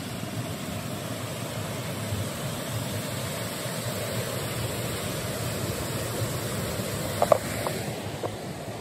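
A mountain river rushing steadily over its bed, with a few short sharp clicks about seven seconds in.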